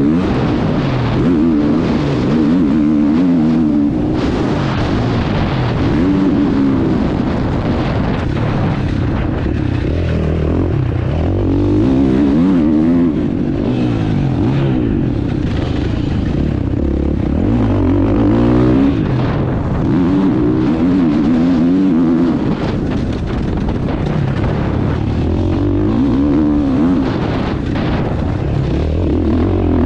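Husqvarna motocross bike engine revving hard and easing off over and over as it is ridden around a dirt track, heard from on board the bike.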